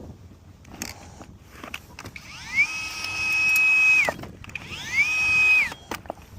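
A handheld power tool's electric motor, run twice: each time it winds up quickly to a steady high whine, holds, then winds down, the first run longer than the second. Scattered clicks and knocks of tool handling around the runs.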